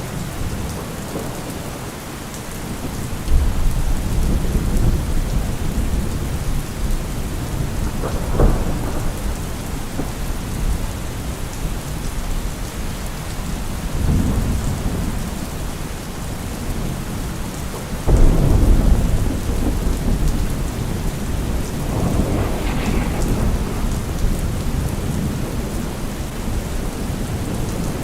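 Steady rain falling, with rolls of thunder rumbling through it several times, the loudest about two-thirds of the way in.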